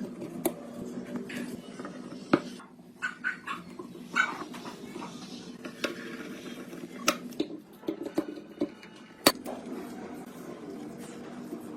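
Scattered sharp metallic clicks and knocks of parts and hand tools being handled, over a steady low hum; the loudest knocks come about two seconds in and again near nine seconds.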